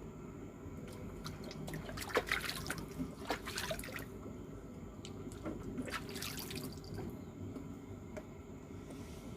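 Water splashing and dripping in two short bursts, about two and six seconds in, over a steady low rumble.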